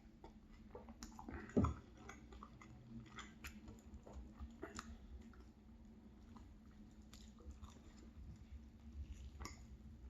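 Close-miked chewing with small wet mouth clicks and a light crunch. A short falling 'mm' hum comes about a second and a half in.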